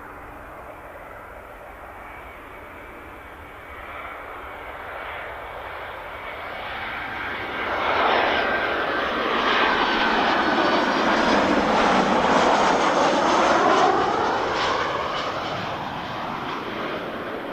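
An airliner passing low overhead near the runway end. Its engine noise builds, is loudest for several seconds in the middle with a swirling, sweeping sound as it goes over, then fades away.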